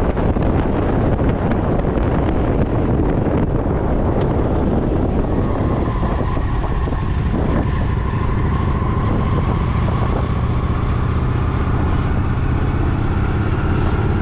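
Motorcycle engine running while under way, with heavy wind rush on the microphone. From about halfway through, the engine note shows as a steady tone that rises slowly.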